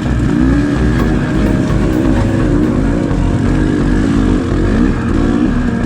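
Dirt bike engine running under the rider, its pitch rising and falling again and again as the throttle is opened and closed on rough trail, with uneven low thumping underneath.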